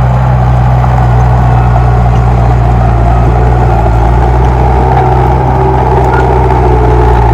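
Komatsu D31P bulldozer's diesel engine running steadily at a constant speed.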